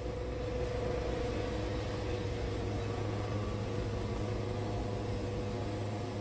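Wood-Mizer band sawmill running steadily, with an even hum that holds one pitch throughout.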